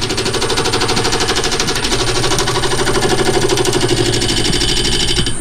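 A power tool running with a rapid, even hammering rattle.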